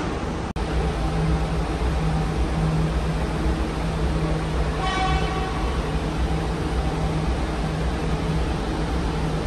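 KTM ETS electric intercity train drawing into the platform and slowing to a stop, a steady low rumble with a hum. A brief horn toot sounds about five seconds in.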